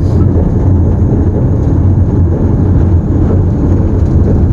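A 1942 diesel-electric locomotive's engine running, heard from inside the cab as a loud, steady low drone.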